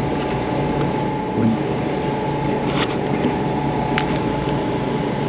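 Steady mechanical hum with a constant high whine running underneath, and a soft bump about one and a half seconds in.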